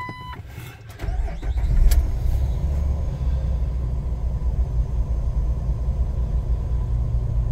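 2006 Jeep Wrangler Rubicon's 4.0-litre straight-six cold-started: a dash chime beeps at the start, the starter cranks for about a second, then the engine catches, flares up briefly and settles into a steady fast idle.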